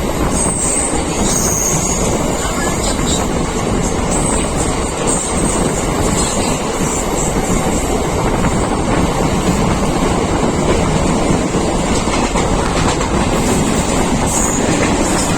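Rani Shiromoni Express passenger train running along the track: a steady, loud rumble of wheels and carriages.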